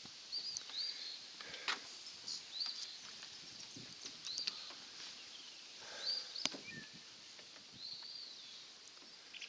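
A bird calling faintly outdoors, giving short high rising-and-falling chirps every second or so, with a few sharp clicks in between.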